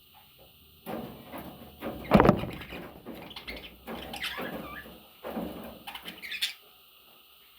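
A run of irregular knocks and scraping, like something being handled or moved against wood. The loudest knock comes about two seconds in, and a short high, rising chirp, typical of a budgie chick, comes near the end.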